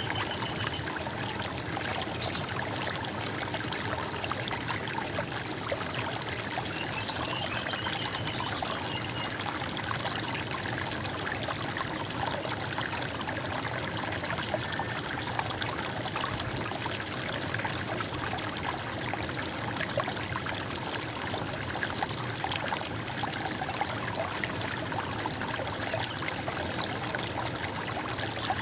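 Running water gurgling and trickling steadily, like a small stream over stones. A few faint, short, high bird chirps sound over it in the first ten seconds or so.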